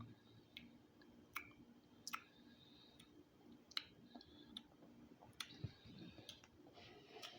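Faint, irregular mouth clicks and lip smacks of someone chewing food close to the microphone.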